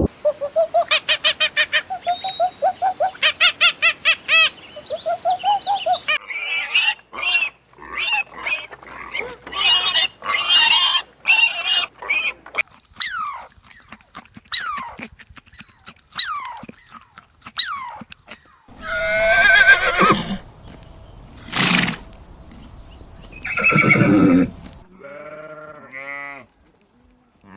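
Farm animals calling, several kinds one after another with abrupt changes between them: rapid repeated calls at first, then short calls that fall in pitch, then a few longer, louder calls and a low-pitched call near the end.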